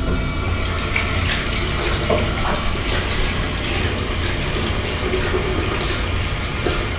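Bathroom sink tap running into the basin, with irregular splashes as water is cupped in the hands and splashed onto the face.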